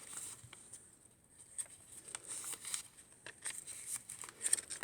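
Paper pages of a handmade junk journal being handled and turned: soft irregular rustling with scattered light crinkles and ticks.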